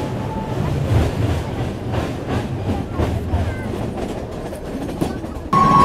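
Metre-gauge train running along the track, a steady rumble with irregular clicks of the wheels over rail joints. Just before the end, a loud steady high tone cuts in abruptly.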